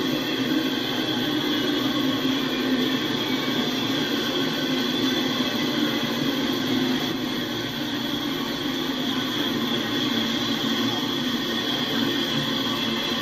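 Double-stack intermodal freight train rolling past at steady speed: a continuous rumble of steel wheels on rail from the container well cars, with a steady high-pitched ring over it.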